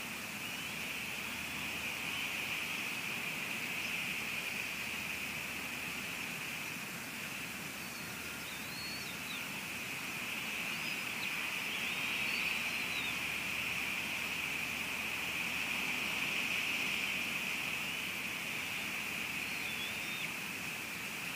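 Steady hiss of rain on an outdoor camera microphone, with a few faint, short, high bird chirps now and then.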